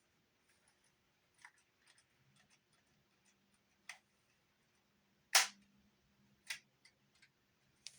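Scattered mechanical clicks of a Sony TC-50 cassette recorder's controls being worked, the loudest about five seconds in, over a faint low hum from about two seconds in, while the recorder fails to run properly.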